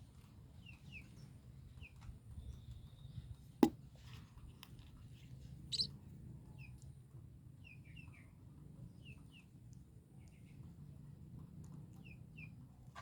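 Baby birds cheeping: short, falling chirps, often in pairs, repeating every second or so. A sharp click a little over three and a half seconds in, and a smaller one near six seconds.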